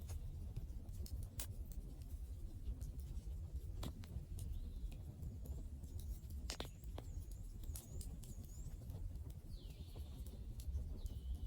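Campfire burning: wood crackling with scattered sharp pops, one stronger pop about two-thirds of the way in, over a low steady rumble of the flames. Faint short high chirps come and go behind it.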